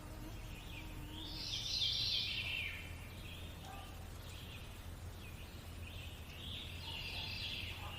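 Birds chirping and twittering in a nature-sounds background track, loudest about a second in and again near the end, over a low steady hum.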